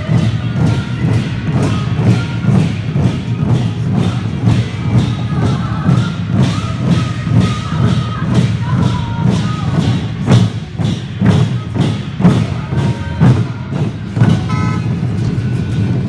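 Drums beaten together in a fast, steady rhythm, with many strikes a second.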